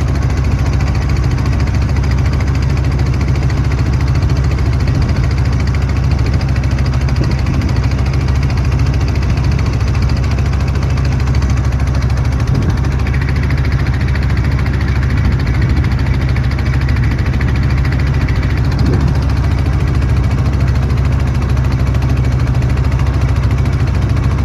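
Boat engine running with a steady low drone, with no change in speed.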